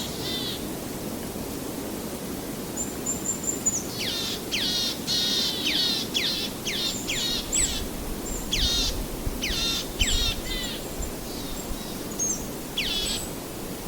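Birds calling in quick runs of high notes that sweep sharply downward, several clusters through the middle and one more near the end, over a steady low rushing background.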